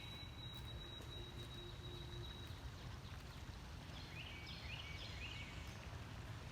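Faint songbird calls: a thin, steady high note for the first couple of seconds, then a quick run of four or five chirps about four seconds in, over a low, steady outdoor rumble.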